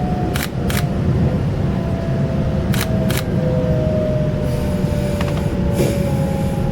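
Taiwan Railway local express train running, heard from on board: a steady low rumble with a faint tone slowly falling in pitch. Pairs of sharp clicks sound twice as the wheels pass over rail joints.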